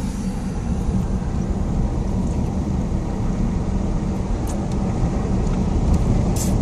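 Steady low road and engine rumble heard inside a moving car, with a couple of faint clicks near the end.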